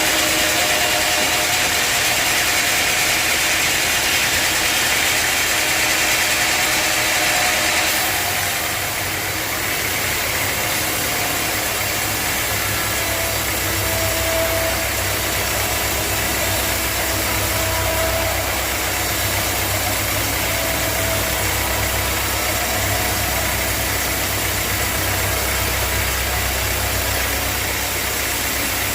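Sawmill machine running steadily. A higher hiss in the first eight seconds drops away, and a deeper hum takes over for the rest.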